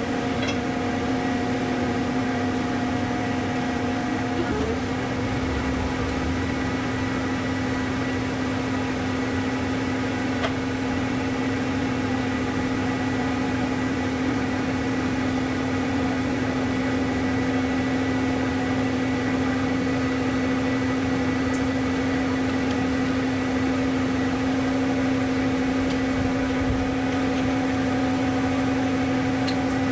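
A steady machine hum holding one pitch, with no change in level.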